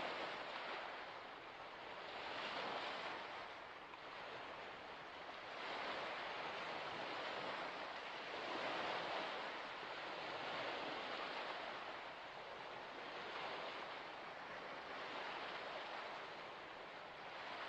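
Waves washing onto a shore: a steady rush of water that swells and eases every two to three seconds.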